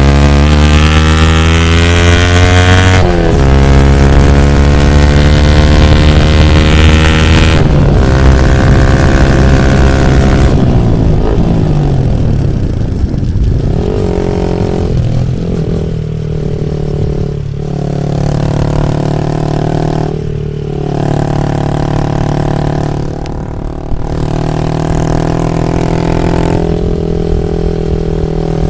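Yamaha MT-15 V2's 155 cc single-cylinder engine through an Akrapovic full exhaust system, pulling hard through the gears. Its pitch climbs and drops sharply at each upshift, twice. It then winds down off the throttle and runs on at part throttle with a few brief lifts and blips.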